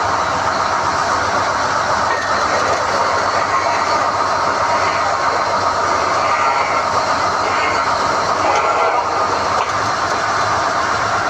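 SDH-1600 core drilling rig running steadily with a loud, continuous mechanical noise.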